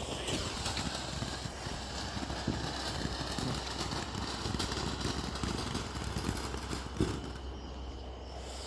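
Steady outdoor background noise: an even, faint hiss over a low rumble, with one light click about seven seconds in.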